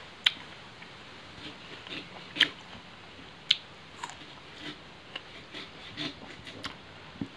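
Close-miked eating of sour raw elephant apple: crisp crunching bites and chewing, with three sharp crunches, about a quarter second, two and a half and three and a half seconds in, and softer chewing clicks after.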